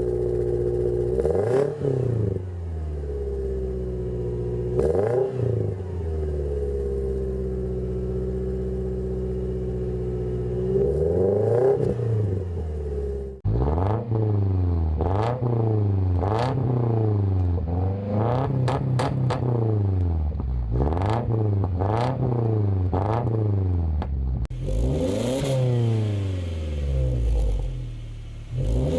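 Subaru Impreza G4 (GJ) flat-four engine's exhaust idling and being revved, in three separate recordings: first a steady idle with a few single revs, then quick repeated rev blips about one a second, then another rev near the end.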